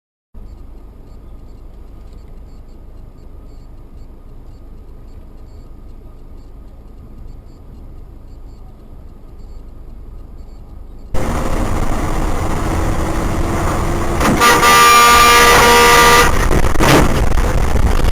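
Muffled road and engine noise inside a moving car. About eleven seconds in, louder traffic noise takes over, and a car horn blares steadily for about two seconds near the end.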